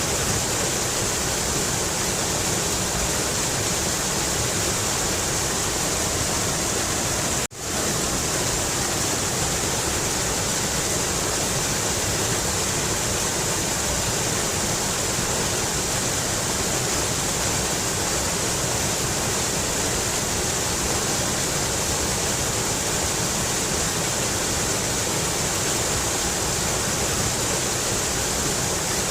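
Mountain river water rushing steadily, a dense even hiss with no breaks except a momentary dip in level about seven seconds in.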